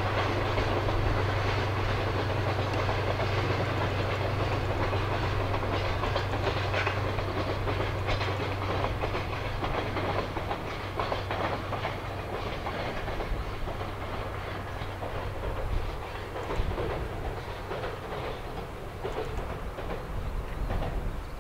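Diesel train running past on the line, its wheels clicking over the rail joints over a steady low engine hum. The sound slowly fades, the hum dying away about two-thirds of the way through as the train draws off.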